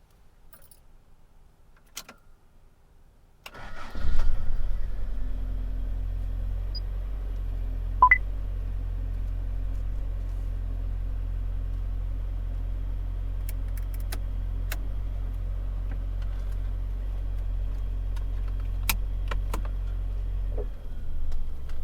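Toyota AE86 Sprinter Trueno's four-cylinder engine cranked and started about four seconds in, catching with a brief rise in revs, then idling steadily. A few clicks come before the start, and the idle shifts near the end.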